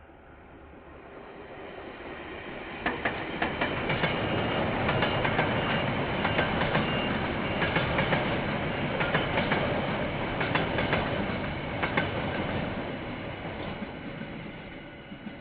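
KiwiRail train passing, its wheels clicking over the rail joints in quick irregular clusters; the sound builds over the first few seconds and fades near the end.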